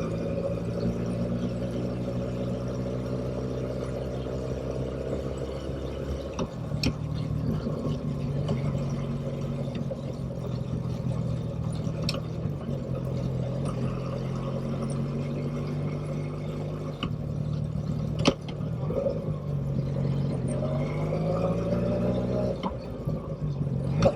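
Motorcycle engine running, holding a steady pitch for about six seconds, then changing and wavering, with a few sharp clicks and the pitch rising and falling near the end.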